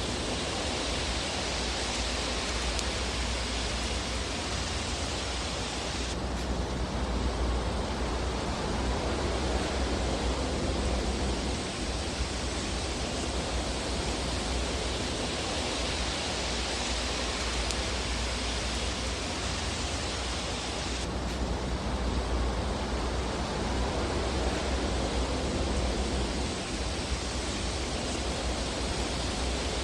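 Fireplace fire ambience: a steady, even rushing hiss, with no distinct pops standing out. The high hiss shifts abruptly about six seconds in and again near 21 seconds, as at the seams of a looped recording.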